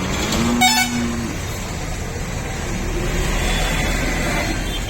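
A horn toots once near the start, a flat, steady note lasting about a second, over the steady low rumble of an engine.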